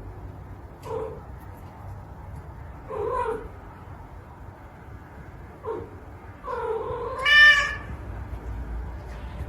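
A cat meowing four times: three short meows, then near the end a longer, louder meow that climbs in pitch.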